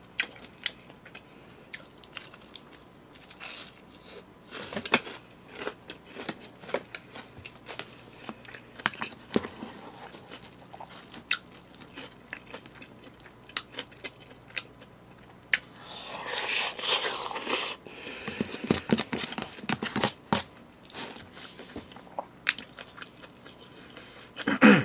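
Close-up chewing and crunching of crispy deep-fried pork cutlet, with scattered clicks of chopsticks and a spoon against plastic takeout containers. A louder noisy stretch comes about sixteen seconds in.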